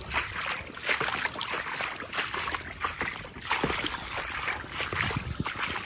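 Footsteps wading through shin- to knee-deep floodwater, splashing and sloshing in an uneven walking rhythm of roughly one or two steps a second.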